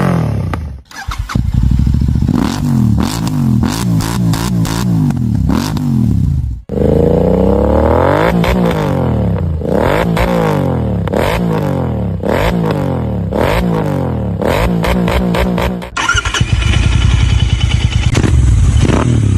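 GT650 motorcycle engine being revved again and again through its exhaust, the pitch climbing and falling with each blip about once a second. The sound breaks off briefly twice, and in the last few seconds gives way to steadier, rougher running.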